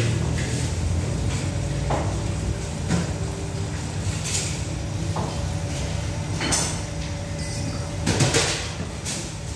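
Passenger and parcel coaches of a slow train rolling past: a steady low rumble with irregular metallic clunks as the wheels cross rail joints, the loudest pair about 8 seconds in.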